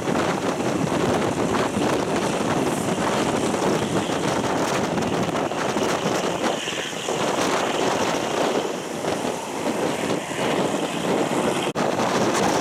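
Running noise of an old Japanese-built passenger coach under way: steady wheel-and-rail rumble with wind buffeting the microphone at the open window. The sound cuts out for an instant near the end.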